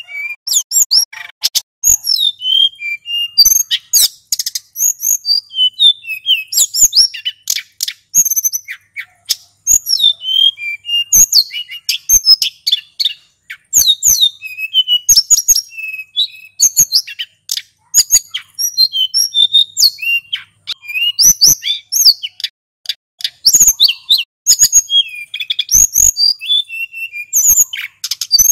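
Male sulingan gunung singing in a fast, unbroken rolling run of high chirps and whistled notes.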